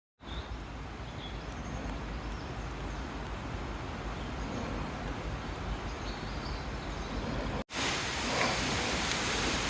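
Outdoor woodland ambience: a steady low rumble and hiss with a few faint high chirps. After a brief dropout about three-quarters of the way through, it comes back as a louder, brighter steady hiss.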